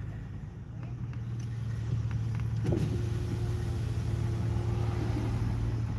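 Car driving on the road, heard from inside the cabin: a steady low engine and road hum that grows louder over the first two seconds, as if the car is speeding up, then holds steady.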